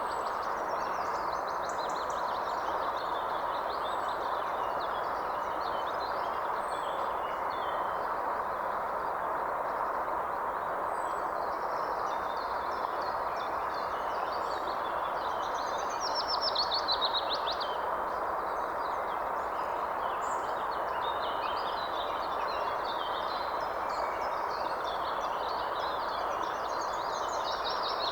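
Several birds chirping and trilling over a steady rushing background noise, with one louder trill a little past halfway.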